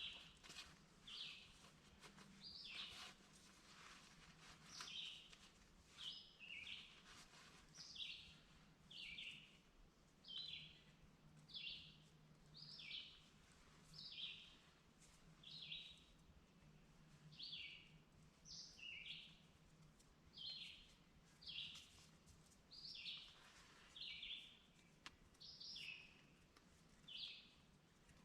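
A songbird calling: a faint, short, high chirp that falls in pitch, repeated steadily about once a second.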